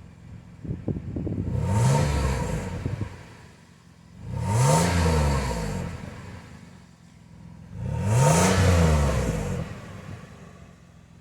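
Exhaust of a high-mileage 2004 Lexus RX300's 3.0-litre V6, heard from behind the car as the engine is blipped three times, each rev rising and falling back to idle.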